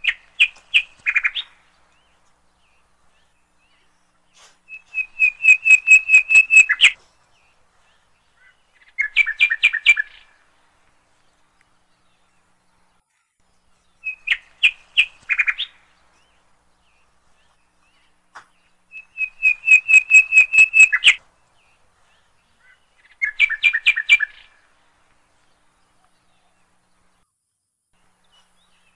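A songbird calling in six bursts of rapid, evenly spaced chirps, each burst lasting one to two and a half seconds, with quiet gaps between; the same three-burst pattern comes twice.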